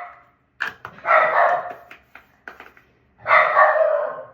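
Dogs barking in two loud bouts, one about a second in and one about three seconds in, with a few short sharp clicks between them. It is alert barking at someone heard in the hallway.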